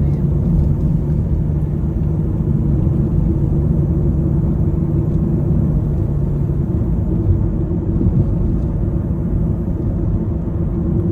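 Steady low rumble of a car being driven, heard from inside the cabin: engine and road noise with a low hum.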